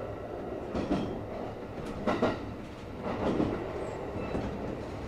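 Kintetsu 5800 series electric train running on the line: a steady rumble of wheels on rail, with a few louder clacks about a second apart as the wheels pass over rail joints.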